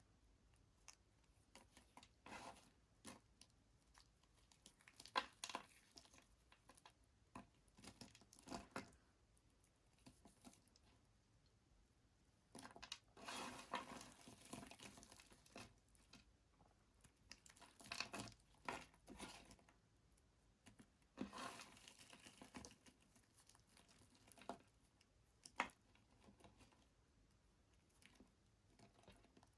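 Bar soap being cut with a blade: a series of crisp, crackling cuts, some single short strokes and some longer runs of scraping lasting a second or two, separated by near-quiet pauses.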